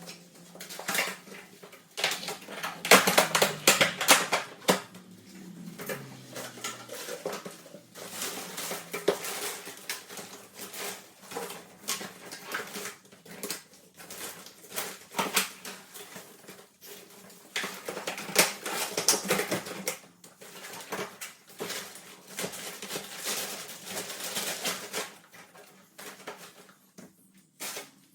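Irregular clattering and knocking of hard plastic and metal parts being handled as a split-system air conditioner is set up for cleaning, in a small room.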